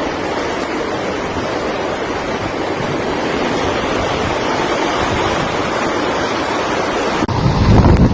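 Hurricane wind and water: a steady rushing noise. About seven seconds in it changes abruptly to heavy, low wind buffeting on the microphone.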